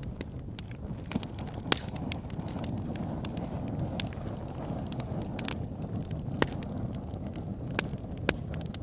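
Wood fire burning in a fireplace: a steady low rumble of flames with irregular sharp crackles and pops from the logs, a few of them louder, about two seconds in and again around six and a half seconds.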